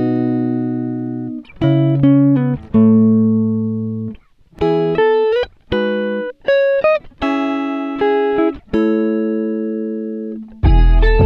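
Music: a clean guitar picks single notes and chords that ring out and fade, some of them sliding up in pitch. A deep bass comes in near the end.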